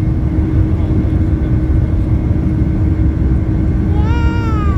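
Airliner cabin noise during takeoff: a loud, steady low rumble with a constant engine hum. Near the end a brief high-pitched cry rises and falls over it.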